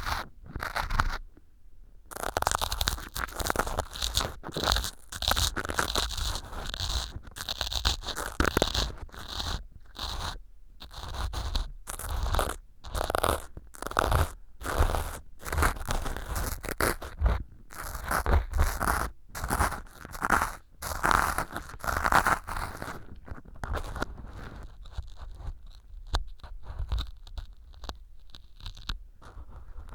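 Ear pick scraping and crunching through small pieces of floral foam set as fake earwax in a silicone ear model, picked up close on a binaural microphone: a long run of crisp, crumbly strokes broken by short pauses.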